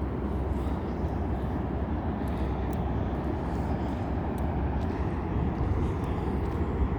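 Steady low rumble of wind on the microphone, with a few faint light ticks.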